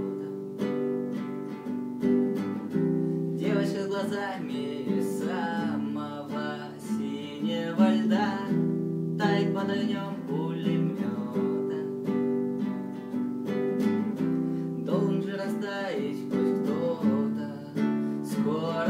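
Acoustic guitar played with strummed chords, accompanying a song.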